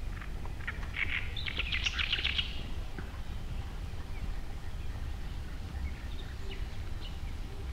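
A bird calling outdoors: a quick run of chattering notes in the first few seconds, then a few scattered faint chirps, over a steady low rumble.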